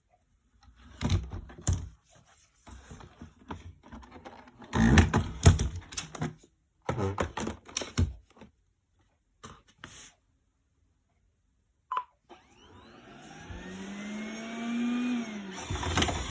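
Electrolux Pure i9.2 robot vacuum: a series of short, uneven bursts of noise with silent gaps between them. About twelve seconds in there is a click, and then the suction motor starts up with a whine that rises in pitch.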